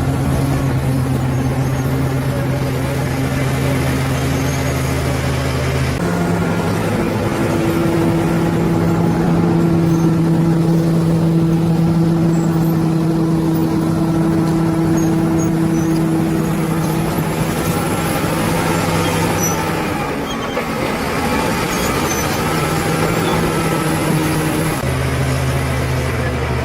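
Bulldozer's large diesel engine running hard under load with a steady deep hum. The pitch steps up abruptly about six seconds in, holds higher through the middle, dips briefly and drops back to the lower note near the end.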